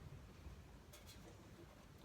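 Near silence: room tone, with a faint click about a second in.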